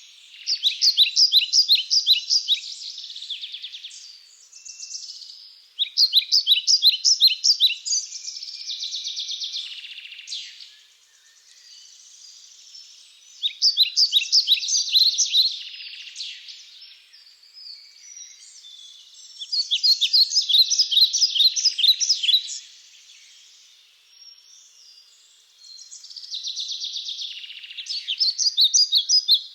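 A songbird singing the same fast, trilled song of rapidly repeated high notes five times, each song lasting two to three seconds and coming about every six seconds. Fainter bird calls and chatter fill the gaps between songs.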